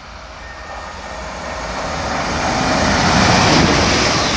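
Class 350 Desiro electric multiple unit passing through the station: a rising rush of wheel and air noise that builds steadily and is loudest about three and a half seconds in.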